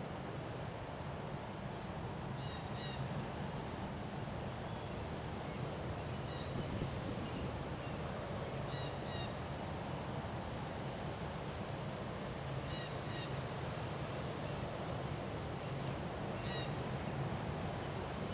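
Steady wind noise, with a bird repeating short high calls, often two at a time, about every four seconds.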